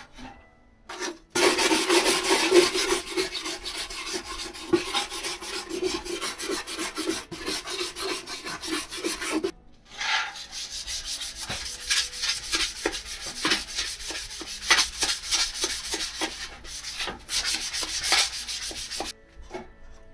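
Abrasive hand rubbing, like sanding, in dense rapid strokes for several seconds. It stops briefly about halfway, then goes on as a run of more separate strokes.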